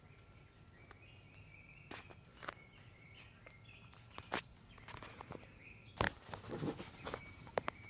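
Footsteps with scattered scuffs and knocks, the loudest cluster about six seconds in, as someone walks over to a garage door sensor. Birds chirp faintly in the background.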